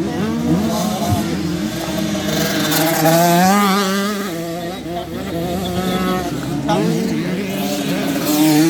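Several motocross bikes racing, their engines revving up and down over one another. The engine notes rise and fall as the riders work the throttle and pass.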